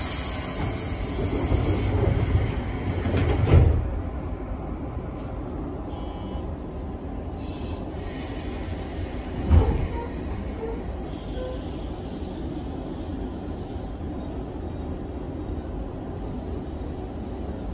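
Electric train running, heard from inside its cab: a steady rumble of wheels on rail, louder for the first few seconds, with two sharp knocks, one about three and a half seconds in and one about nine and a half seconds in.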